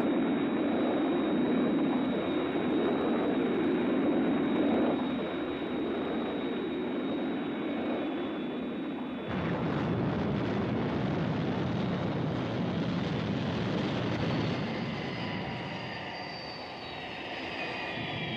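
Jet engine sound effect of Thunderbird 1 in horizontal flight: a steady rushing roar with a thin high whistle. About halfway through it cuts abruptly to a fuller, deeper roar.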